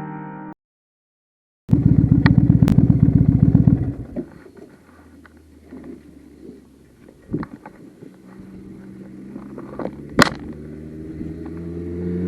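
Motorcycle engine running loud and close for about two seconds, then dropping away. A few sharp knocks follow, and an engine hum builds steadily toward the end.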